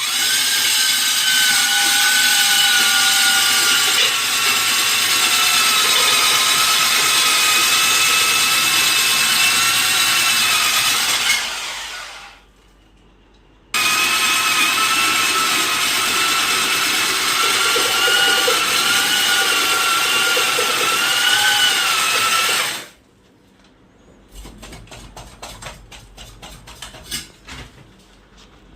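Power tool motor, drill-like, running with a steady whine that wavers slightly under load, in two long runs with a stop of about a second and a half between them. Near the end it gives way to scattered light clicks and knocks.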